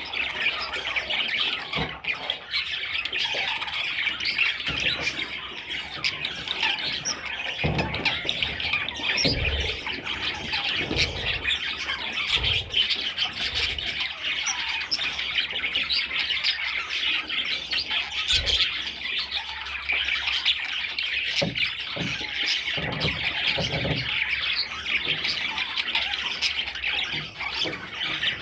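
Budgerigars chattering and squawking nonstop, many voices overlapping, with a few dull low thumps along the way.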